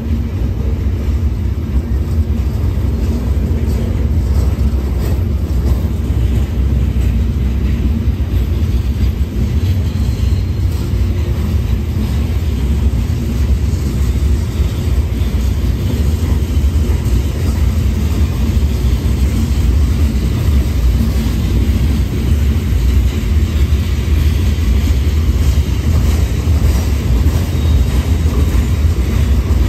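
Freight train of hopper cars rolling past at steady speed: a continuous low rumble of steel wheels on the rails.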